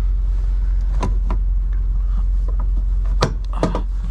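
Steady low rumble of an idling semi-truck, with a few sharp knocks about a second in and louder knocks a little after three seconds.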